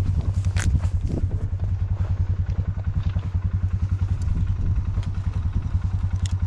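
Off-road vehicle engine idling with a steady low, even throb, with a few light clicks and clatter on top.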